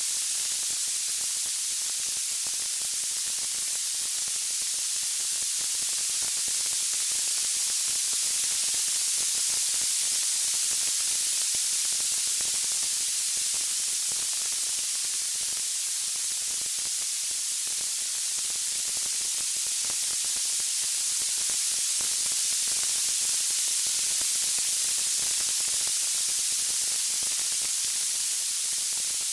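Steady high-pitched hiss of white noise, like radio static, even and unchanging throughout.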